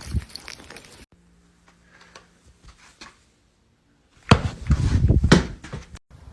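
A quick run of knocks and clattering, the loudest sound here, starting about four seconds in and lasting under two seconds, after a stretch of faint ticks.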